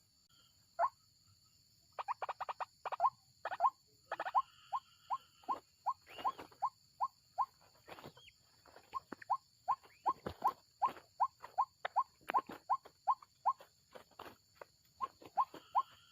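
White-breasted waterhen (ruak-ruak) calling: a long run of short rising notes, about three a second, starting about two seconds in. A few sharp knocks are mixed in.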